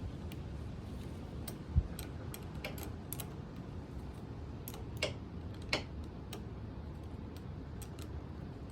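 Scattered light clicks and taps of hand tools being worked on a bolt and nut, over a steady low wind rumble, with one short thump about two seconds in.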